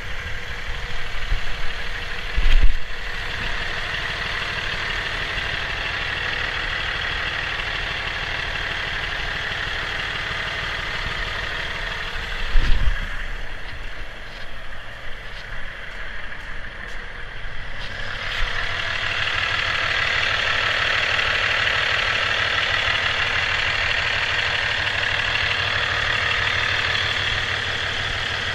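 Cummins ISX inline-six diesel engine running steadily at idle. There are two loud low thumps, about 3 and 13 seconds in. After about 18 seconds the sound turns louder and brighter.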